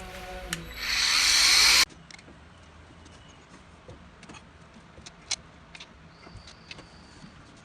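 A loud rising rush of noise that cuts off suddenly about two seconds in, followed by scattered light metallic clicks and taps of hand tools working on the engine.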